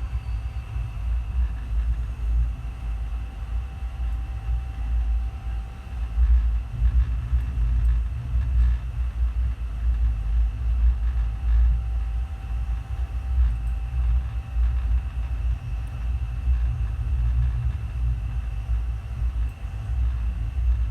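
Passenger train running, heard from on board: a steady low rumble that rises and falls, with faint steady whine tones above it.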